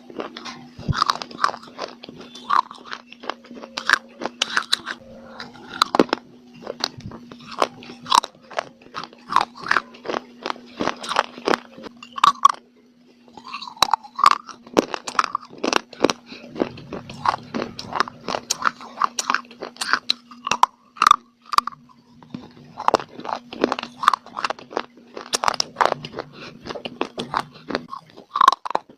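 Close-up biting and chewing of dry clay (mitti): many sharp, brittle crunches in quick succession, with a short pause about halfway through. A steady low hum runs underneath and stops near the end.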